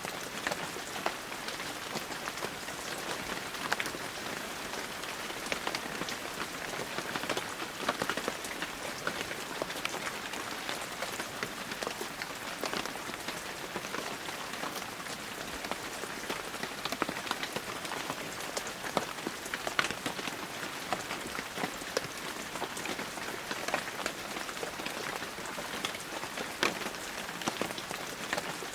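Steady heavy rain, with many individual drops ticking sharply on surfaces close by.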